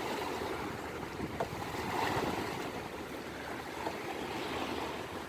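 Sea waves washing onto the shore, a steady rush that swells gently about two seconds in.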